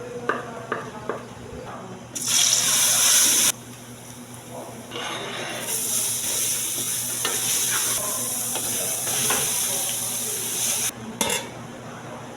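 Water running hard from a tap into a sink. There is a short loud burst about two seconds in, then a longer steady run that cuts off near the end, with clinks of dishes and utensils at the start.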